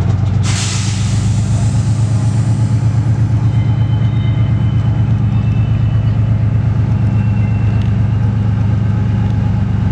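Two-stroke diesel engines of a 2TE10UT locomotive running with a loud, steady low throb. A burst of hissing comes about half a second in and fades over the next couple of seconds.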